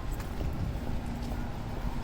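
City street ambience: a steady low rumble of traffic, with a faint hum coming and going and a few light clicks.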